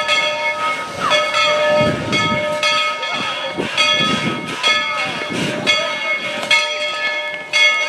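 Steam locomotive bell on Tweetsie Railroad's 1943 Baldwin 4-6-0 No. 190, rung steadily with a strike about every two-thirds of a second. Slow, deep chuffs of steam exhaust swell underneath it, as a train moving off at low speed would make.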